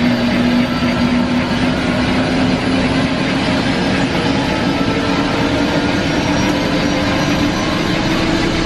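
Helicopter engine and rotor running steadily: a loud, even drone with a constant low hum.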